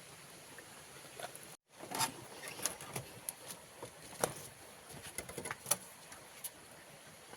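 Irregular light clicks and taps, a dozen or so, over a faint steady hiss; the sound drops out completely for a moment about one and a half seconds in, and the clicks follow.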